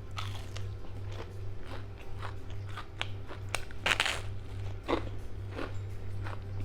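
Close-up chewing and biting of crunchy food, in irregular crackly crunches with the loudest about four seconds in, over a steady low hum.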